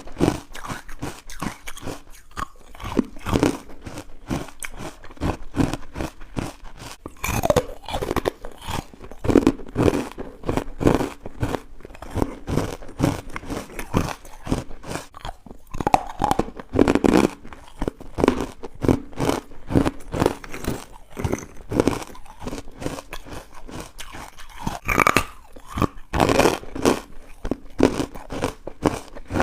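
A person biting and chewing chalky, powdery carbonated white ice close to the microphone: a dense, irregular run of sharp crunches.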